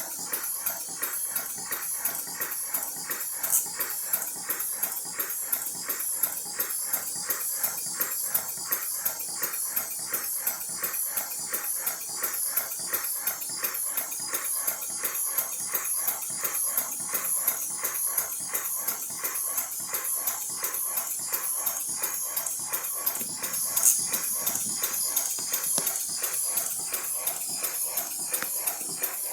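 Live-steam 5-inch-gauge model steam locomotive chuffing in a fast, even rhythm, with steam hissing, and two brief sharp clicks, about four seconds in and near the end.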